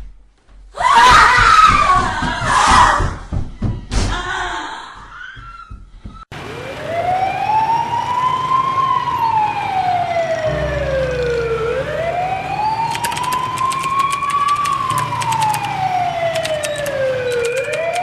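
A loud, noisy clatter for the first few seconds, then an emergency-vehicle siren starts about six seconds in: a slow wail that rises and falls in pitch, repeating about every six seconds.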